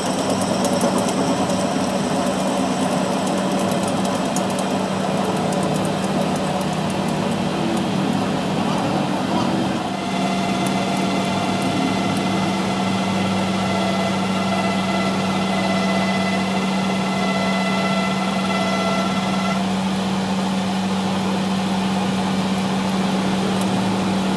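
A machine running steadily with a constant low hum; about ten seconds in a higher whine joins it and stops just short of twenty seconds.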